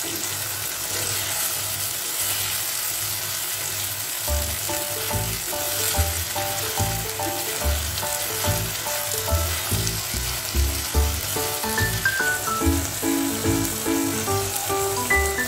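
Squid with onion and tomato sautéing in a pan, sizzling steadily while a spatula stirs it. Background music with a light melody and a bass beat comes in about four seconds in.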